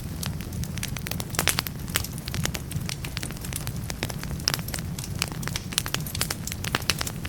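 Log fire burning in a fireplace, crackling with many irregular sharp pops over a steady low rumble.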